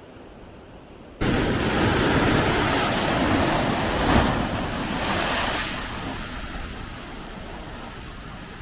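Big sea waves breaking as heavy surf. The rush starts abruptly about a second in, is loudest for a few seconds, then eases to a steadier wash.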